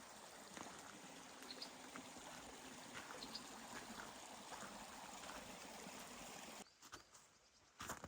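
Water flowing over rocks, a steady rushing that cuts off suddenly about two-thirds of the way through. A few short knocks follow near the end.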